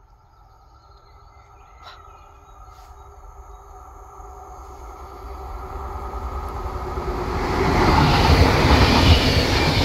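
Passenger train approaching and passing a level crossing, its rail noise growing steadily louder to a loud peak about eight seconds in as it crosses. No crossing warning bells ring: the crossing is broken.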